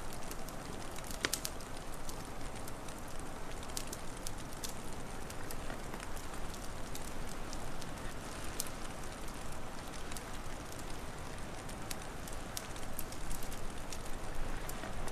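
Wood fire crackling, with scattered sharp pops and snaps over a steady hiss.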